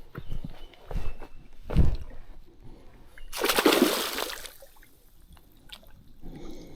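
A few dull knocks, then a loud splash of water about three and a half seconds in, lasting about a second.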